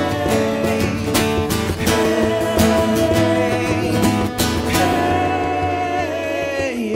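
Live acoustic guitar strumming a song, with a long wordless sung line over it through the middle.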